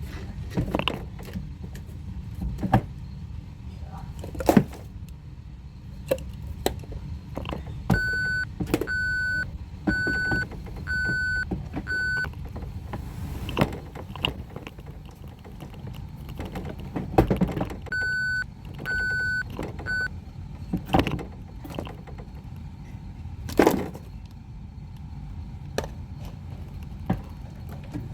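Toy trash truck's electronic beeper sounding in two short runs, five beeps and then three, about one a second, like a reversing alarm. Around it come repeated clicks and knocks of hard plastic toy parts being handled and moved.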